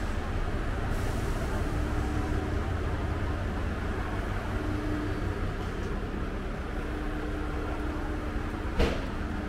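Electric train cab noise: a steady low rumble with a hum that comes and goes, and one sharp knock about nine seconds in.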